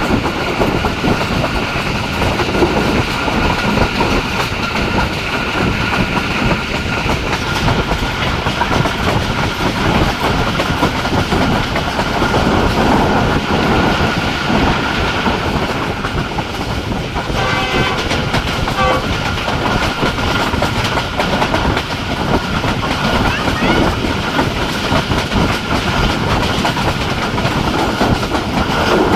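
Jaffar Express passenger train running at speed: a continuous loud rumble with wheels clattering over the rail joints and a faint steady whine.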